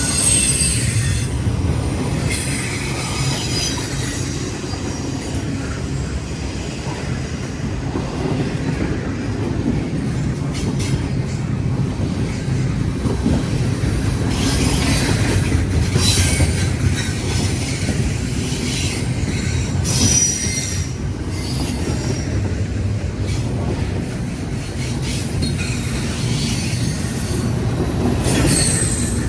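Freight train cars rolling past in a steady low rumble, with brief high-pitched squeals from the wheels now and then.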